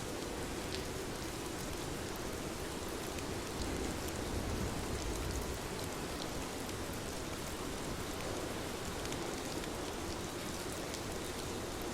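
Steady rain falling: an even hiss with scattered sharp drop ticks. The low end swells slightly about four seconds in.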